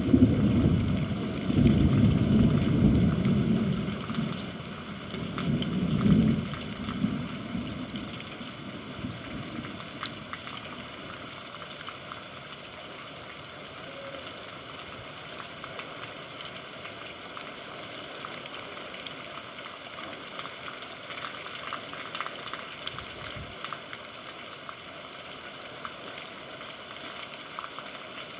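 Steady rainfall, a crackly hiss of many drops. A low rumble of thunder fills the first six seconds or so and fades out.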